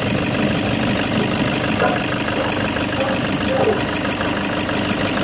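Toyota Hiace diesel engine idling steadily with a light diesel clatter, running again now that the blown fuse from the shorted wiring has been replaced.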